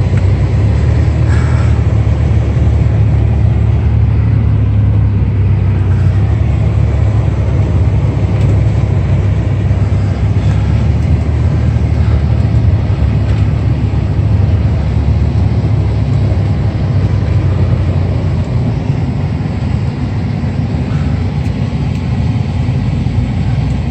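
Vehicle driving, heard from inside: a steady low rumble of engine and road noise.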